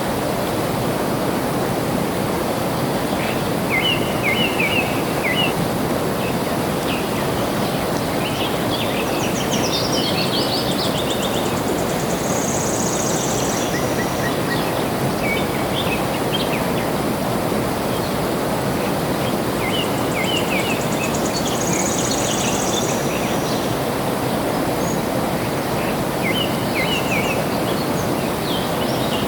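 Water flowing steadily, with birds chirping and twittering over it in short spells several times, including a higher, drawn-out trill twice.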